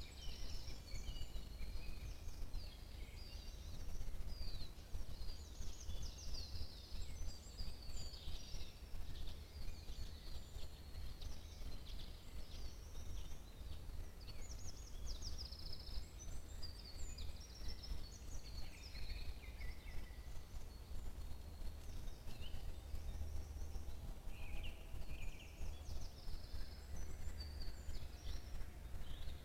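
Several songbirds singing in a spring forest, short chirps and trills overlapping throughout, over a steady low rumble.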